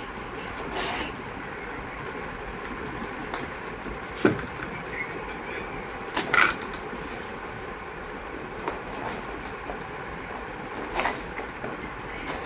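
Scattered clicks and knocks from handling a desktop computer's parts, with sharper knocks about four, six and eleven seconds in, over a steady background hiss.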